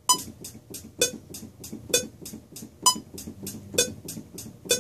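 A sampled hi-hat from the Battery Pop Kit plays an even eighth-note-triplet pattern, three ticks to each beat, over a metronome clicking about once a second.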